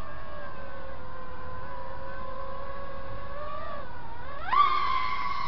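Eachine V-tail 210 quadcopter's brushless motors and propellers whining steadily in flight, then dipping and climbing sharply in pitch about four and a half seconds in as the throttle is pushed up.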